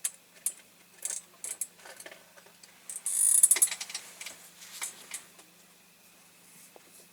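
Small hard objects clicking and clattering as paintbrushes and tools are picked through and handled on a workbench, with a short, louder rustle about three seconds in. It goes quiet for the last second and a half.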